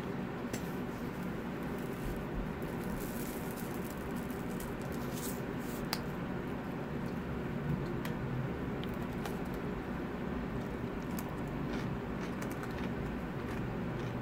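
Close-up wet chewing and lip-smacking of a person eating, with many small scattered clicks, over a steady low hum of room noise.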